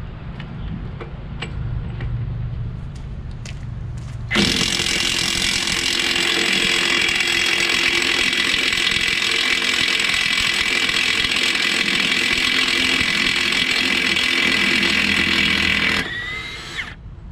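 Impact wrench running hard for about twelve seconds on a stuck trailer hub nut, starting abruptly about four seconds in and cutting off near the end. A low steady hum comes before it.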